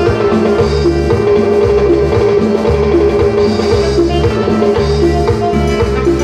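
Latin tropical band music with a drum kit, percussion and a bass line repeating in short notes about every half second, under sustained melody notes; no singing.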